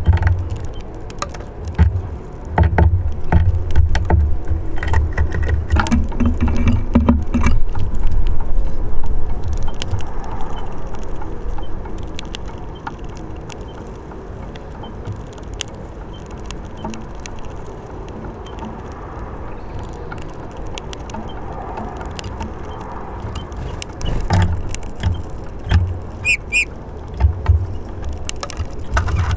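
Wind buffeting the microphone in gusts, with many sharp clicks and taps over it. A couple of brief high bird calls come near the end.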